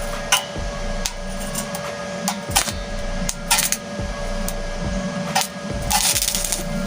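Stick welding with a small inverter arc welder: the arc crackles and snaps in irregular spurts, thickening into a dense sizzle about six seconds in, over a steady hum from the machine.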